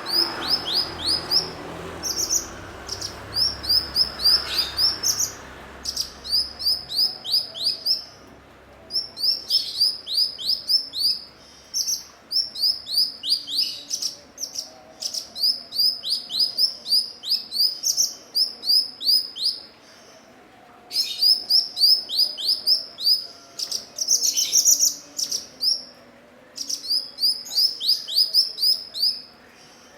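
Cucak cungkok singing: phrases of quick, high, downward-sweeping chirps, several a second, each phrase one to three seconds long and broken by short pauses.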